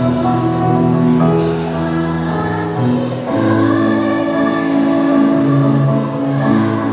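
Primary school children's choir singing in parts, holding long notes that change every second or so, moving into a fuller chord about halfway through.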